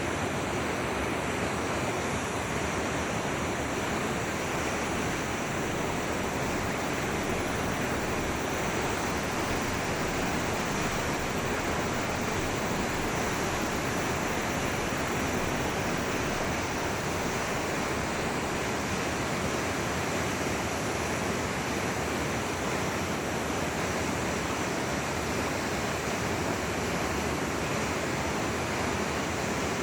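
Steady rushing of a flowing forest stream, an even wash of water noise with no change in level.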